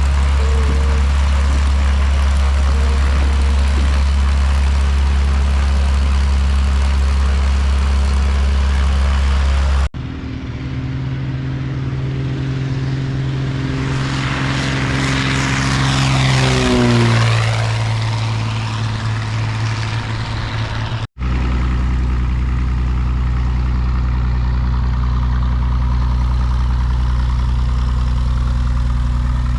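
Light single-engine propeller airplanes running, in three abrupt cuts: a steady engine drone, then a plane passing close with its engine pitch dropping sharply as it goes by just past the middle, then a steady drone again.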